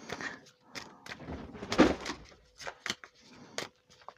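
Irregular knocks, taps and rustling handling noises, with one heavier thump a little under two seconds in.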